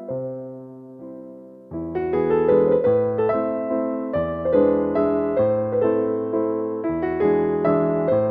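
Background music of slow, gentle piano, with notes struck and left to ring. It is softer at first, then fuller chords come in about two seconds in.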